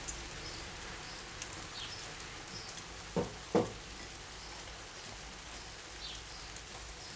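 Two short knocks about half a second apart from tools or parts being handled, with a few faint ticks over a steady low hiss.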